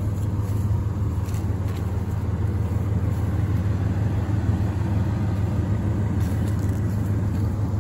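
1999 Ford F-150's 4.6 L V8 idling steadily through a true dual exhaust with Flowmaster two-chamber mufflers and no catalytic converters.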